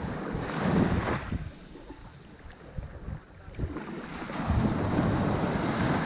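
Ocean waves breaking on a shore: a surge of surf about a second in, a lull, then a longer wash of surf building from about four seconds on.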